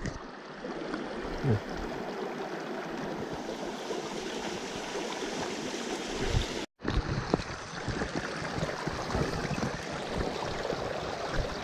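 Mountain stream running low over rocks: a steady rush of water, cut off briefly about two-thirds of the way through, with a few light knocks in the second half.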